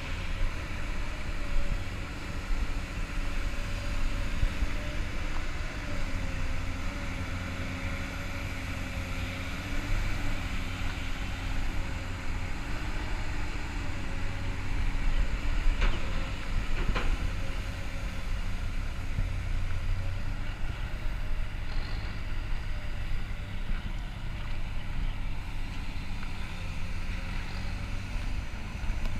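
Komatsu PC200-8 long-reach excavator running: a steady diesel engine with a hydraulic whine that shifts a little in pitch as the machine works. About halfway through there are two sharp knocks a second apart.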